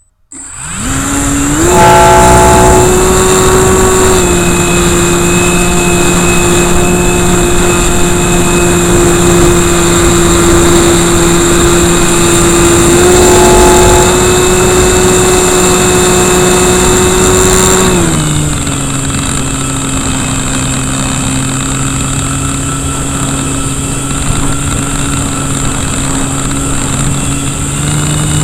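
Electric RC Cessna's KV1100 brushless motor and propeller, heard up close: it spools up in the first two seconds, runs steadily at high throttle with a whine, then drops to a lower, steady throttle about eighteen seconds in.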